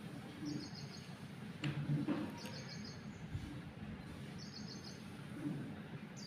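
A small bird chirping: a short, rapid string of high notes, repeated about every two seconds, over faint background noise.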